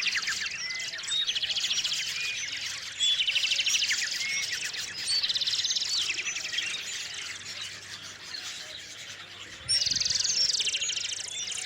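Small songbird singing the same short phrase over and over, each ending in a fast trill, several times a few seconds apart with a longer pause near the middle, and scattered chirps between.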